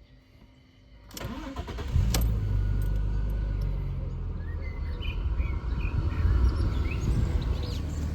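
Audi A4 B5's 2.4-litre 30-valve V6 (APS) being cranked by the starter about a second in and firing up about two seconds in, then settling into a steady idle.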